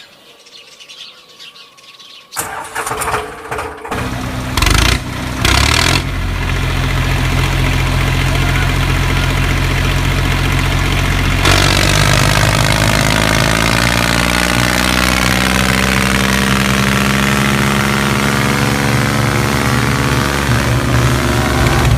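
An engine cranking in a few short bursts, catching and then running steadily, its pitch dipping and rising again in the second half.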